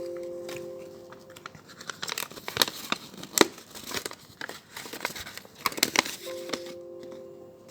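Paper being handled and creased, crinkling with scattered sharp crackles and clicks. A short steady chord-like tone sounds at the start and again about six seconds in.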